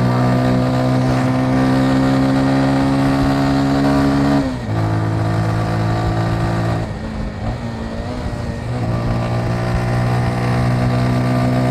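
Motorcycle engine running at a steady speed, heard from on the bike, with a low rumble underneath. About four and a half seconds in the note dips briefly, and a couple of seconds later the engine eases off for about two seconds before picking up its steady note again.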